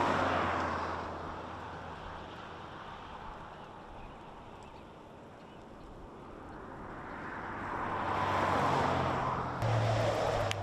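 Cars passing on a road: tyre and road noise from one vehicle fading away in the first couple of seconds, then another approaching and passing close near the end, over a steady low hum.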